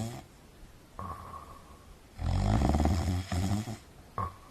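A person snoring in sleep: one long buzzing snore of about a second and a half, with a brief whistle-like tone before it and again near the end.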